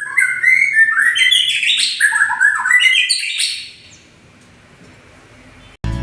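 White-rumped shama (murai batu) singing a fast, varied run of clear notes that jump up and down in pitch, stopping about three and a half seconds in.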